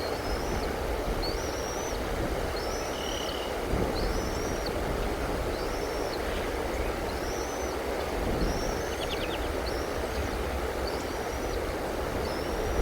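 A bird repeating a short, high, arched call note about once a second over a steady low rumbling background noise.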